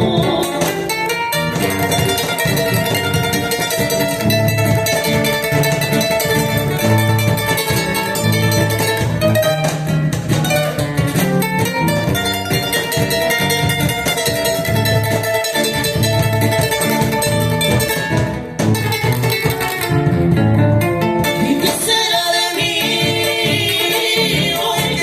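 Live Latin son band playing: plucked guitar-type strings over a steady bass pulse, with singing.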